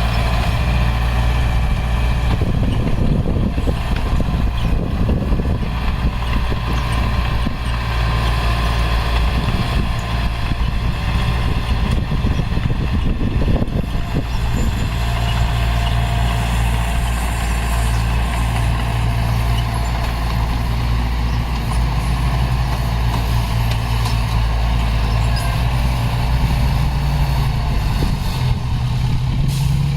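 Heavy diesel engine of earthmoving equipment running steadily under load, with its pitch rising slightly near the end.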